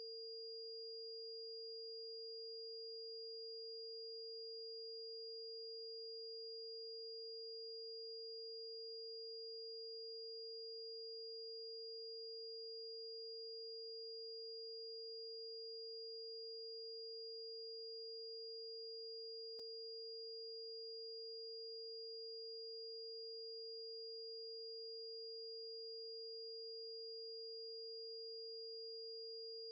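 Electronically generated pure tones held perfectly steady: a tone at about the B-flat root (460.8 Hz) of the Harmonics of Nature tuning scale, together with a much higher, thin whistle-like tone. A faint single click comes about twenty seconds in.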